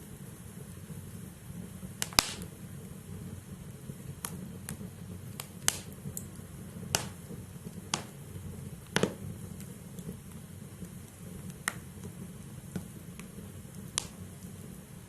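Wood fire burning in a fireplace: a steady low hiss of the flames with sharp, irregular pops and crackles from the burning logs, about a dozen in all, the loudest around two and nine seconds in.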